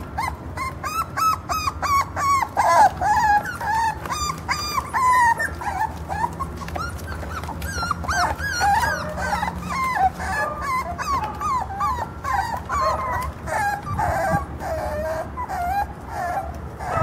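Jack Russell Terrier puppies whining and whimpering: a rapid string of short high-pitched cries, with several voices overlapping in the second half.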